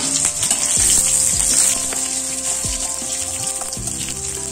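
Garlic cloves and a dried red chilli sizzling in hot mustard oil in an aluminium wok: a steady high hiss with small crackles, and a metal spatula stirring them near the end. Background music plays underneath.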